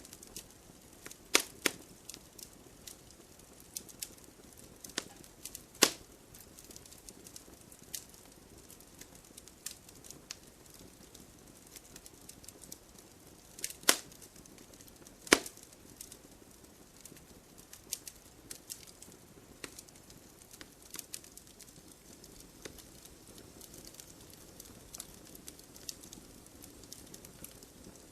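Firewood burning: a soft steady hiss of flames under frequent irregular crackles, with a few sharp, loud pops standing out, the loudest a little past the middle.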